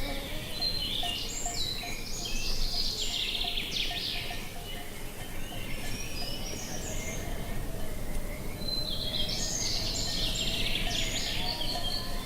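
A songbird sings two bursts of rapid, warbling high phrases over a steady outdoor background noise.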